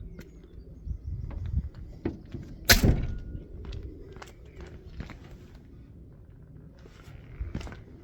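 Scattered footsteps and small knocks, with one loud thump a little under three seconds in.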